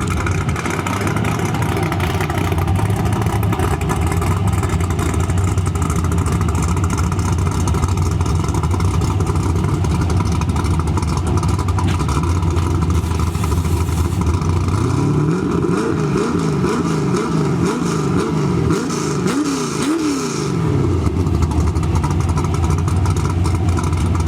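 A vehicle engine running steadily, with a string of rising and falling revs for about five seconds past the middle.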